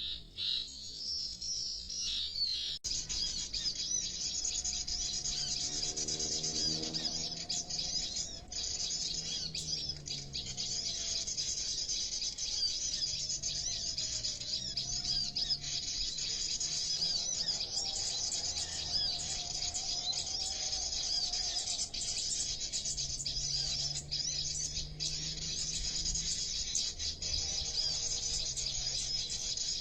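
Dense, continuous high-pitched chirping of many small birds, starting abruptly about three seconds in, with fainter low sliding tones underneath.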